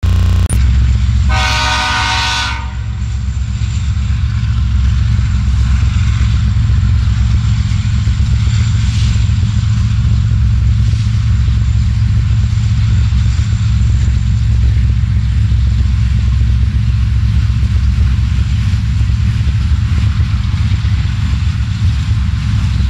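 Diesel freight train locomotives rumbling steadily and loudly, with a short air horn blast of about a second and a half, sounding as a chord, about a second in.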